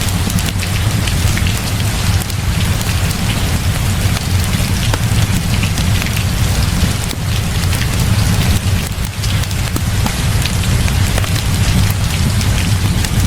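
Steady heavy rain with a deep low rumble underneath and many small sharp ticks scattered through it.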